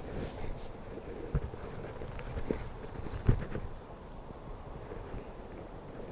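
A steady high insect chorus, with a few dull knocks, the loudest about three seconds in.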